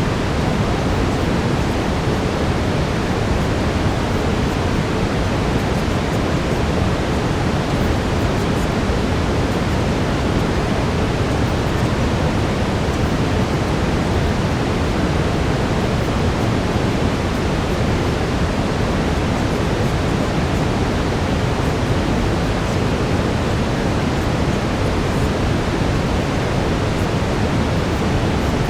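Brown noise: a steady, even rushing hiss, heaviest in the low end, with no change throughout.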